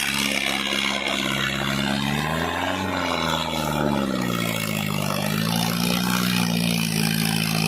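Tractor engine running under load, its pitch rising briefly about two and a half seconds in, then dropping and settling back to a steady note.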